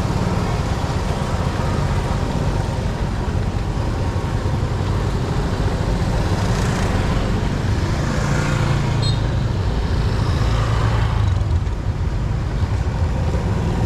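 Motorcycle on the move: a steady engine and road rumble, with louder swells between about six and eleven seconds in.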